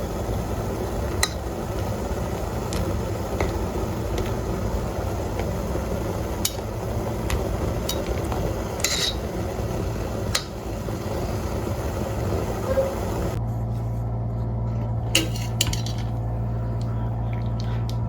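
Kitchen work: a steady rush of water with dishes and cutlery clinking now and then. About two-thirds of the way in, the water sound stops abruptly, leaving a low hum and a few more clinks of dishes.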